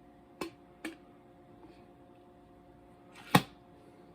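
Two light clicks, then a sharper knock a little over three seconds in, from hard parts of a French press being handled, over a faint steady hum.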